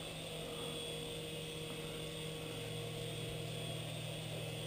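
Toy RC helicopter (WLtoys V319) flying, its small electric motors and rotor giving a steady, even whir.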